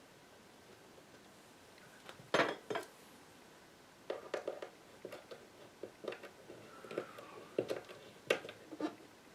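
Irregular clicks and clinks of small metal parts and hand tools being handled on a workbench, with a loud cluster about two seconds in and scattered taps through the rest.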